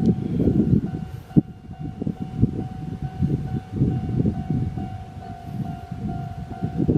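C58 363 steam locomotive passing with its train, the exhaust chuffing in quick uneven beats over the rumble of the cars, with a sharp knock or two. A level-crossing warning bell rings throughout as a steady, fast-repeating tone.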